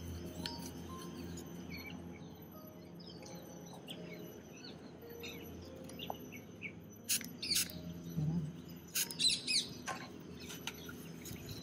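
Wild birds chirping and calling, with a flurry of louder, rapid calls from about seven to ten seconds in.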